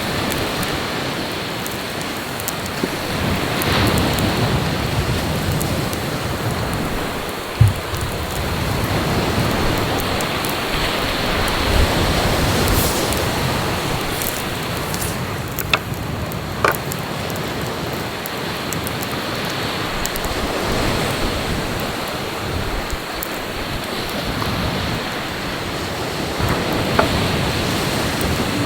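Sea waves washing onto the shore: a steady rushing that swells and eases every several seconds, with a few sharp clicks.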